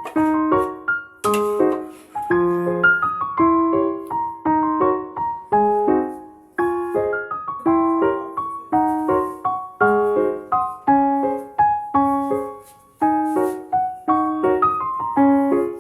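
Background piano music: a gentle melody of single struck notes and chords, several notes a second, each note fading.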